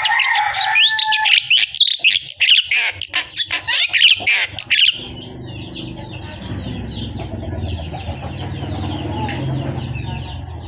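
Pet talking bird chattering loudly, with rapid clicks and quick chirping whistles, for about five seconds. It then drops to faint chirps over a low steady hum.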